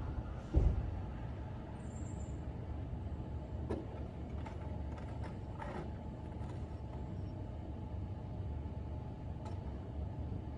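Steady low rumble of road traffic, with a heavy thump about half a second in and a few short scrapes or knocks in the middle.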